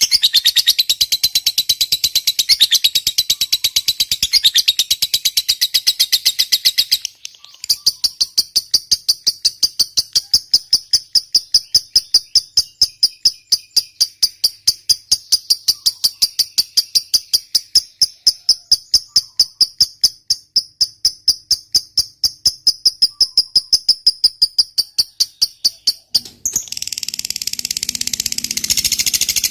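Lovebird ngekek: a long, unbroken chattering trill of rapid, sharply repeated high notes. It breaks off briefly about a quarter of the way in, then runs on for about eighteen seconds, and near the end turns into a denser, harsher chatter.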